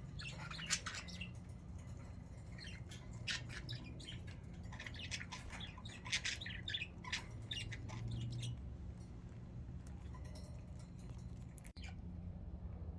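Pet budgerigars chattering and squawking, in busy bursts of short, sharp calls for the first eight or nine seconds, then sparser.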